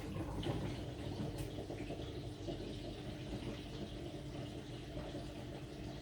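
AQUA AQW-DX12M drum washing machine running mid-cycle, with water sloshing in the drum over a steady hum from the machine.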